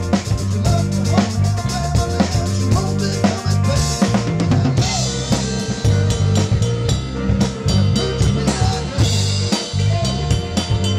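Live rock band playing: a drum kit with bass drum and snare driving a steady groove under bass guitar and electric guitars.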